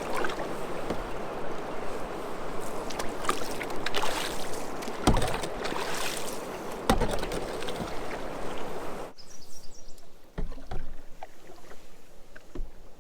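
Loud rushing whitewater as a canoe runs a rapid, with a few sharp knocks. About nine seconds in the rush cuts off abruptly to a much quieter stretch of water with a few soft knocks.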